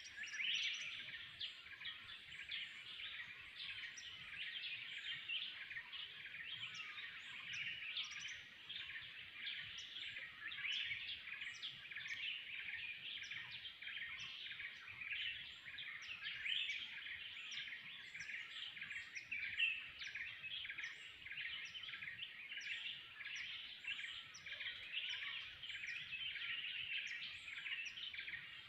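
Dense, unbroken chorus of many wild birds calling and chirping at once, with short high notes repeating throughout.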